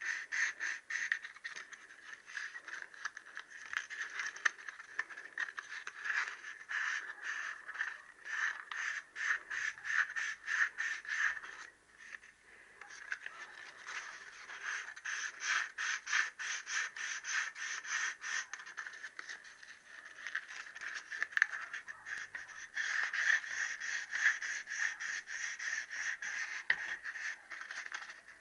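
Wet-and-dry abrasive paper rubbed back and forth on a Triumph T120R crankshaft's big-end journal, a quick scraping rasp of several strokes a second with a short pause about twelve seconds in. The journals are being dressed lightly to knock the sharpness off any ridges.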